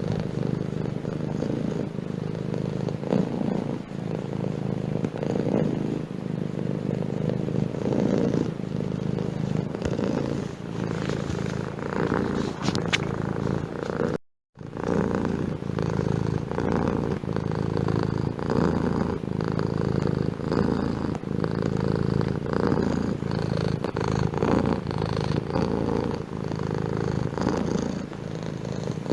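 Domestic cat purring steadily, a low continuous pulsing, with a brief drop to silence about halfway through.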